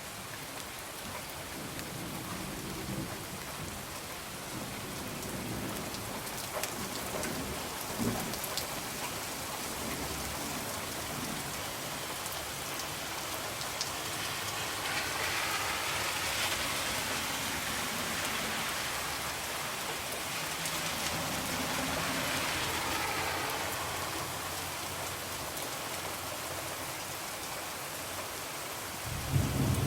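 Steady rain falling on a window, swelling heavier twice in the middle, with low rumbles of distant thunder and a few sharp clicks; a louder thunder rumble begins at the very end.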